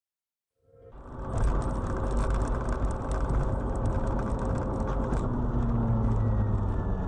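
Car driving: steady engine and road rumble with light clicks, fading in after a moment of silence about a second in.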